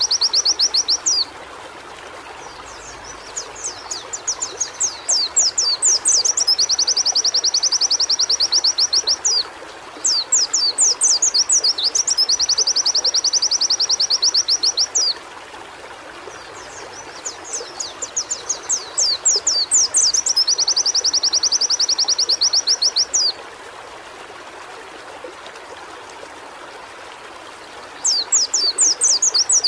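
White-eye (pleci) singing a fast, high song in repeated bouts. Each bout opens with a run of quick sweeping notes and ends in a rapid, even trill two or three seconds long. Short pauses fall between the bouts, with a longer pause near the end, over a steady background hiss.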